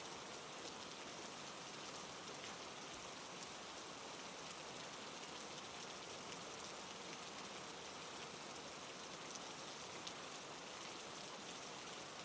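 Steady, gentle rainfall, with faint scattered drop ticks in the patter.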